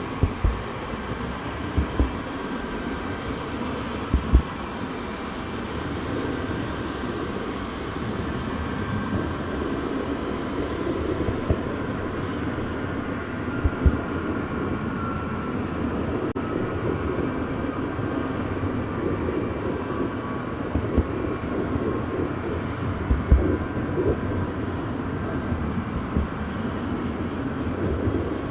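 Steady rumble of a moving train, with a few scattered low thumps.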